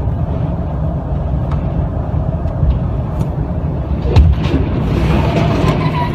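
Vehicle driving on a winter road: a steady low rumble of engine and tyres, with a sudden thump about four seconds in and a few light clicks.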